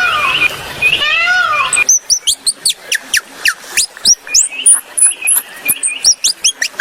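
High-pitched calls of a small animal: rising-and-falling squeals for about the first two seconds, then a rapid run of short chirps, several a second, each sweeping down in pitch.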